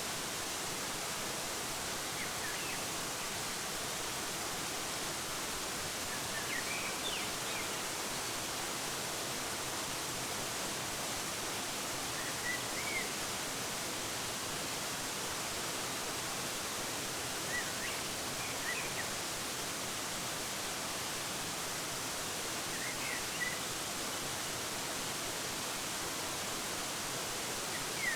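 Steady rush of a waterfall, an even hiss with no change, with short, faint bird chirps in small groups about every five seconds.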